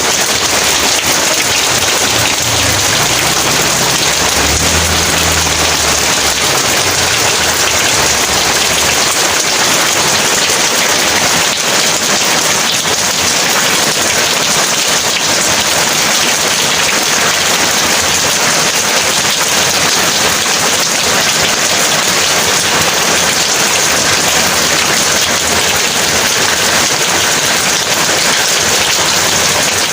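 Heavy rain pouring steadily, with a low rumble of thunder in the first several seconds.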